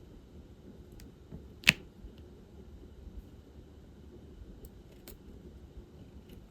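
A few light clicks and taps of diamond-painting work: a drill pen picking up small resin drills from a tray and pressing them onto the canvas. One sharper click stands out about two seconds in.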